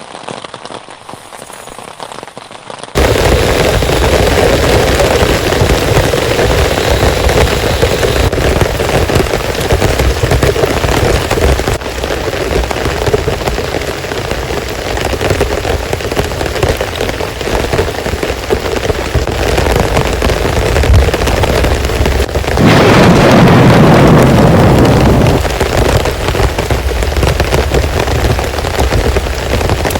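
Heavy rain pouring down. It starts suddenly and loud about three seconds in, after a quieter patter, and swells to a louder rush for a couple of seconds near the end.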